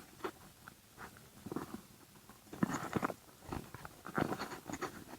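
Handling noise close to the microphone: scattered rustles and small clicks of gear being fitted onto the head, in short bursts.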